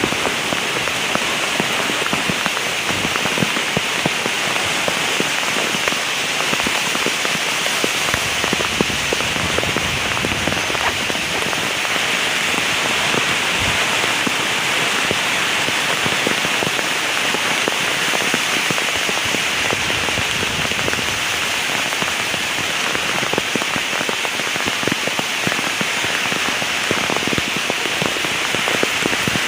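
Heavy rain falling steadily, a dense hiss of countless drops striking a surface, with no thunder.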